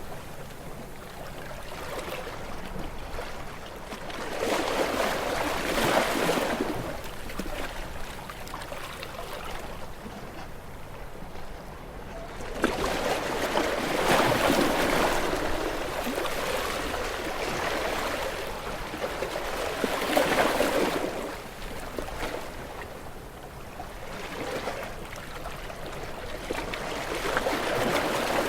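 Small waves washing onto a shore: a wash of water that swells and ebbs about four times, every six to eight seconds.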